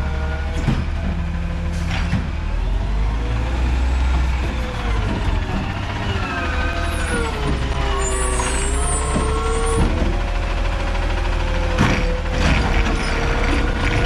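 Garbage truck running, its low engine rumble carrying a whine that sags and rises in pitch with the revs. Sharp knocks and clanks come every few seconds.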